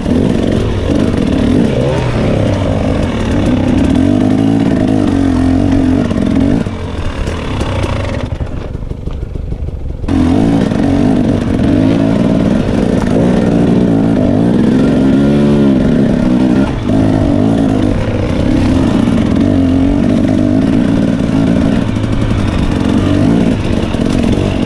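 Dirt bike engine revving up and down as the bike is ridden on a trail, with the throttle rolled off briefly about a third of the way in before picking up again.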